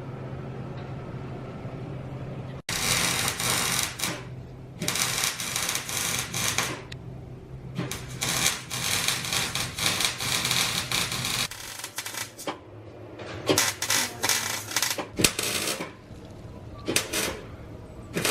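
Electric welding in several bursts of a few seconds each, a crackling sizzle as tabs are welded onto the wheel mounts. A steady low hum comes before them, cut off abruptly.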